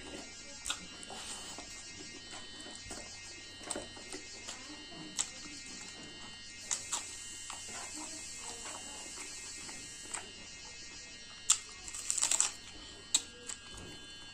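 Eating sounds from someone chewing spicy buffalo meat and rice: scattered sharp smacks and clicks, with a quick cluster about twelve seconds in. A steady electrical buzz runs underneath.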